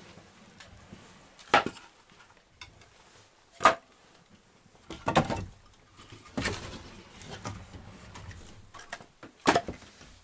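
Firewood being handled: five sharp wooden knocks and clatters, a second or two apart, with quieter rustling between.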